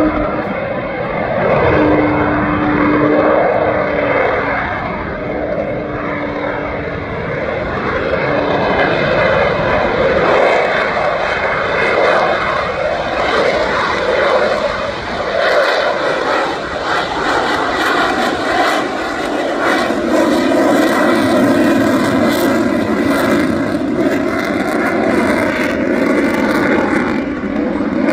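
Loud, continuous jet noise from the F-35A's single Pratt & Whitney F135 afterburning turbofan during its display. From about ten seconds in the sound turns harsher and crackling.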